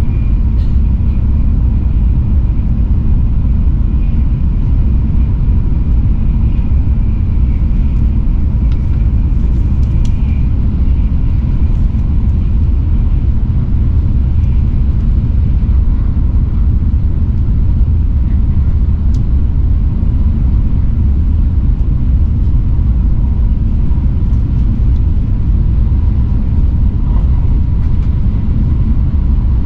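Shinkansen bullet train running at speed, heard from inside the passenger car: a steady, loud low rumble with a faint thin whine above it.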